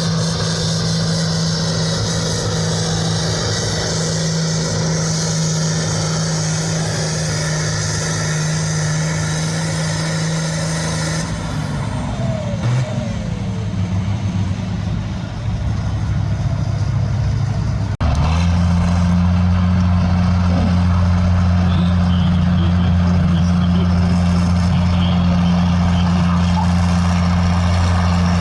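Heavy engine running at a steady speed with a constant low drone. It changes about eleven seconds in, then cuts abruptly at eighteen seconds to a louder steady drone at a slightly different pitch.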